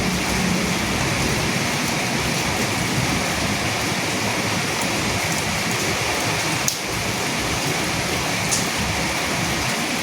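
Steady rain falling as an even hiss, with a few sharper single drop hits, the clearest about two-thirds of the way through.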